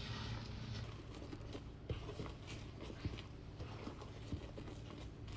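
A spatula stirring a sticky melted marshmallow, butter and Milo mixture in a pan, with faint scattered taps and scrapes against the pan over a low steady hum.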